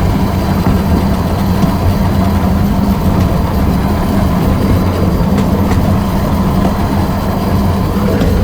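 Small 15-inch-gauge train running along the track behind an electric shunter locomotive: a steady low rumble and hum of wheels and motor, with a couple of faint clicks about midway.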